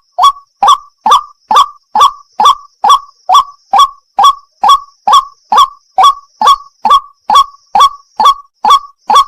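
White-breasted waterhen (burung wak-wak) calling: a short, loud 'wak' note that rises in pitch, repeated at a very even pace of a little over two a second.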